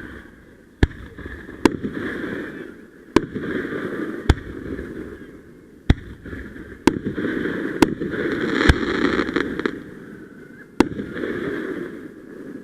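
Fireworks going off in quick succession: about nine sharp bangs a second or two apart, each followed by a second or two of crackling.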